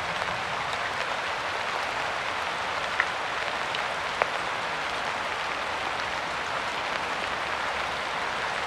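Steady rain falling, an even hiss of many drops, with a couple of louder single drop ticks near the middle.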